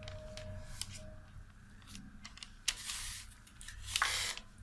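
Kitchen handling sounds: scattered clicks and knocks, with two short bursts of hissing noise past half-way and near the end.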